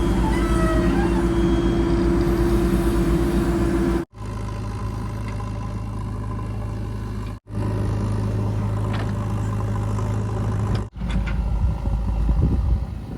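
Diesel engines of heavy machinery (a backhoe loader and tractors) running steadily, in short clips that cut off abruptly about every three to four seconds, each with a different steady hum. The last clip is more uneven.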